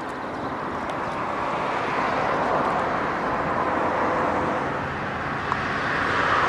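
Aircraft engine, steady and growing gradually louder.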